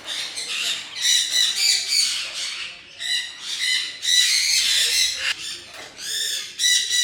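Captive parrots squawking and screeching, harsh calls in quick overlapping bursts from several birds.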